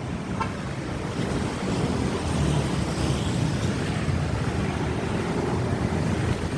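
Suzuki Satria FU fuel-injected motorcycle idling through an aftermarket CLD exhaust: a steady, uneven low rumble mixed with wind noise on the microphone.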